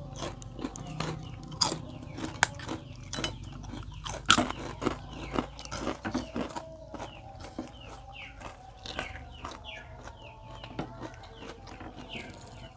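Close-up crunching and chewing of fried crackers, with sharp irregular crunches that come thickly in the first half and thin out later.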